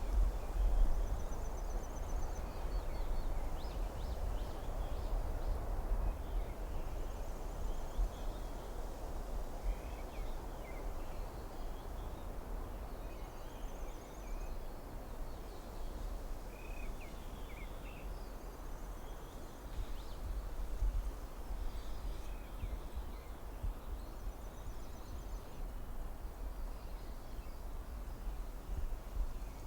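Forest ambience: a steady low rush of wind. Over it, a short rapid trill high in pitch recurs about every six seconds, with scattered brief bird chirps.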